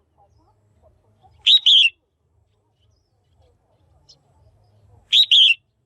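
Female red-whiskered bulbul calling: a short, loud two-part chirp, heard twice about four seconds apart. This is the kind of female call played to stir up males or to pair birds.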